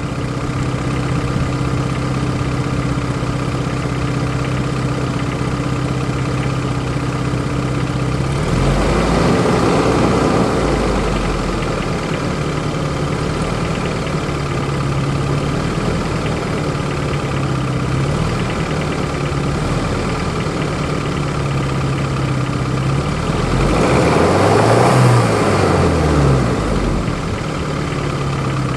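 1993 Geo Tracker's four-cylinder engine idling with an off-rhythm clattering knock, revved up and back down twice. The owner suspects rod knock.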